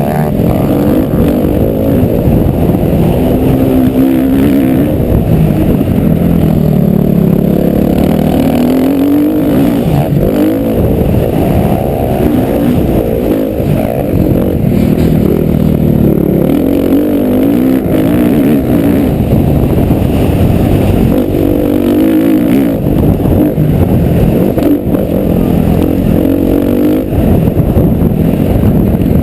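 Motocross bike's engine heard from on board, revving hard with its pitch climbing and dropping every few seconds as the rider accelerates and backs off around the track, under a heavy rumble.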